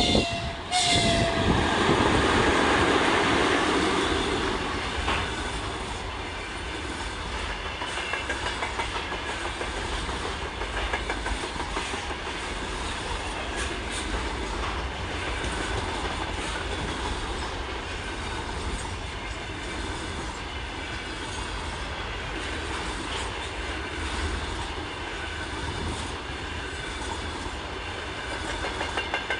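Electric train passing close by: a short horn blast ends about a second in, then wheels rumble and click steadily over the rail joints as the cars roll past.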